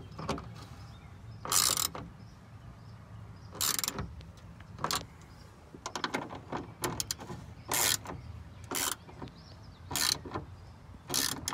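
Hand ratchet wrench tightening 10 mm bolts, clicking in about nine short bursts spaced a second or two apart.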